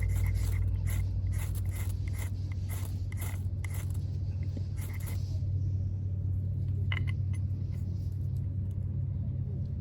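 A quick series of short, sharp scraping strikes, about two a second for the first five seconds and a couple more near seven seconds, typical of striking a fire starter to light a campfire. Under them runs a steady low motor-like drone.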